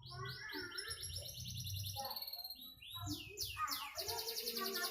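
Domestic canary singing: fast trills of repeated sweeping notes, breaking into a faster, higher roll about three seconds in.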